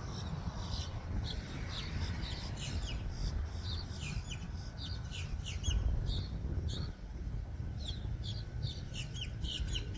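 Small birds chirping busily, many short high chirps in quick succession, over a steady low rumble.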